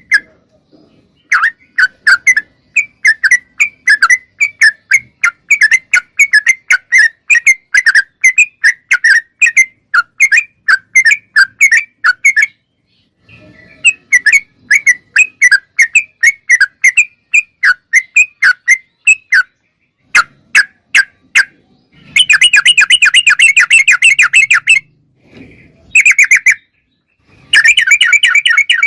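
Yellow-vented bulbul (trucuk) singing: long runs of quick, clear chirping notes, several a second, broken by short pauses. Near the end come denser, louder bursts of chatter.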